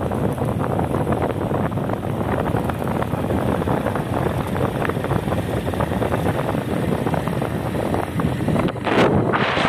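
Wind buffeting the microphone over the steady rumble of a moving vehicle on the road, with a louder rush near the end.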